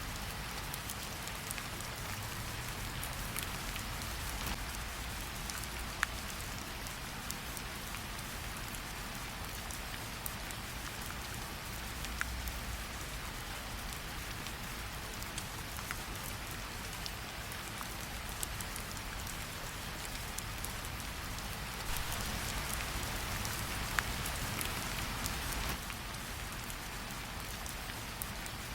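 Steady rain with a low rumble beneath it and a few sharp crackles from a fireplace, several seconds apart. The rain swells louder for a few seconds near the end.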